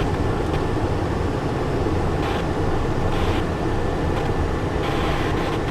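Steady rumble of cockpit noise inside a Cessna Citation Encore business jet: its turbofan engines and airflow, with a few faint steady tones over it.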